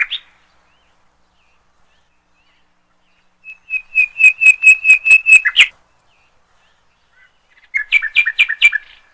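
A bird calling in two bursts of rapid, repeated high whistled notes: a run of about ten notes about four seconds in, ending on a sharper note, then a shorter run of about six near the end.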